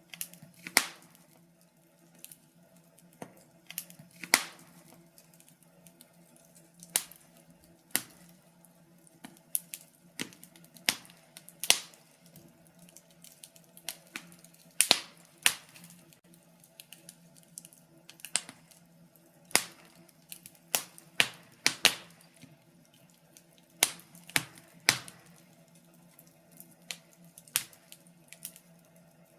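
Wood fire crackling: irregular sharp pops and snaps, a few of them loud, over a faint steady low hum.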